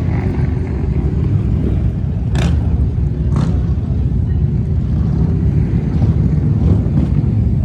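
Motorcycle engine running with a loud, steady low rumble, with two sharp clicks about two and a half and three and a half seconds in.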